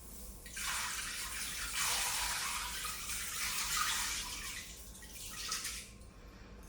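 Water running for about five seconds, a steady hiss that starts suddenly and then stops.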